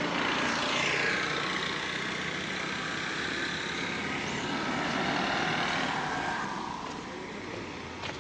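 A motor vehicle passing close by, its engine note sliding down in pitch as it goes past, then fading about seven seconds in.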